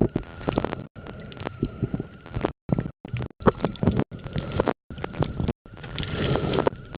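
Muffled knocking, rubbing and water noise picked up by a compact camera sealed in a waterproof pouch, with a faint steady whine underneath. The sound cuts out completely for a moment several times.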